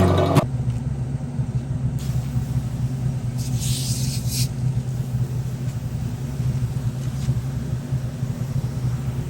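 A motor running steadily with a low drone, with a short hiss about three and a half seconds in.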